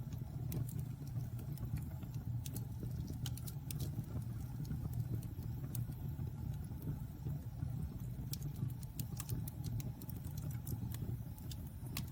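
Wood fire in a fireplace burning with a steady low rumble and frequent sharp crackles and pops scattered throughout.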